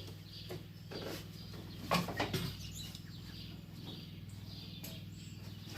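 A few knocks and clatters of things being moved about while searching for gloves, clustered around a second or two in, over a steady low electrical hum, with faint bird chirps.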